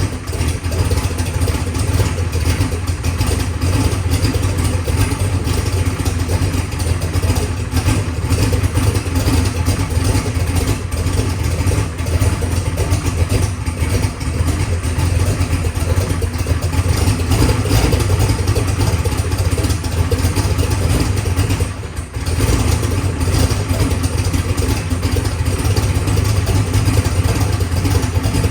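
Methanol-fuelled drag car engine idling steadily on its first run, running rich. The level dips briefly about two-thirds of the way through, then it carries on as before.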